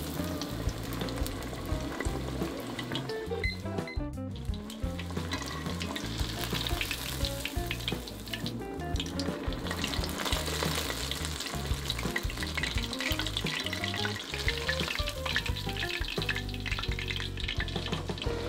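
Breaded beef cutlet deep-frying in oil in a cast iron skillet: a steady crackling sizzle that thins briefly a couple of times, with background music underneath.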